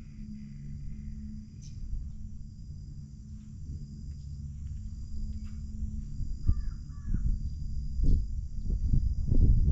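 Birds calling outdoors in pairs of short, quick notes, over a low rumble that grows stronger near the end.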